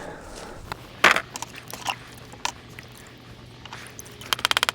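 Scattered clicks and knocks from handling beehive equipment, one louder knock about a second in, then a fast rattling run of clicks near the end.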